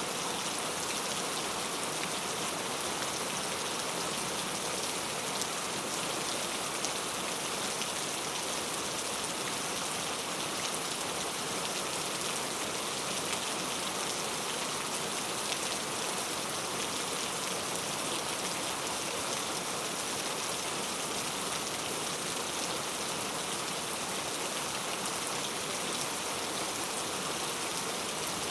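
Heavy rain falling steadily, a dense hiss of drops with fine patter of individual drops hitting hard surfaces.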